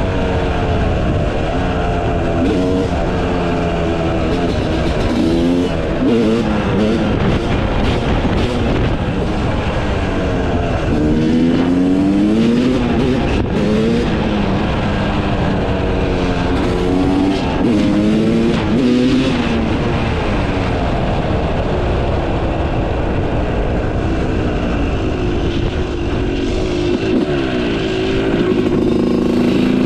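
Yamaha YZ250 two-stroke motocross engine with a Pro Circuit exhaust, revving up and dropping back over and over as the rider accelerates, shifts and rolls off the throttle, with a couple of hard pulls up through the revs midway.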